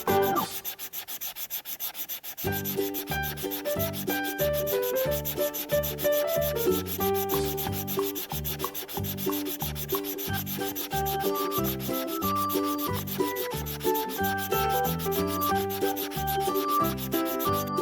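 Rapid, rhythmic scratching of coloring on paper, over a light background tune that drops out briefly about half a second in and comes back about two seconds later.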